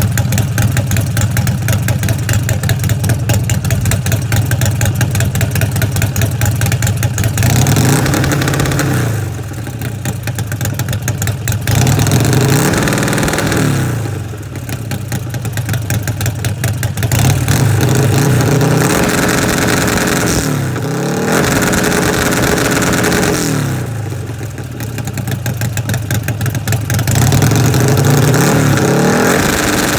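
Buell motorcycle engine held against a two-step rev limiter, stuttering rapidly as the limiter cuts in and out. About eight seconds in it drops back, then it is revved up and let fall several times, with each rise held briefly before easing off.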